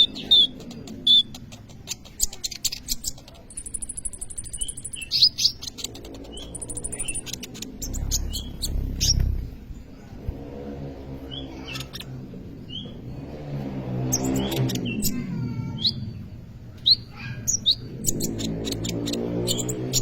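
Kolibri ninja sunbird singing in full voice: a quick run of sharp, high-pitched chirps and short trills, with a thin buzzy trill a few seconds in.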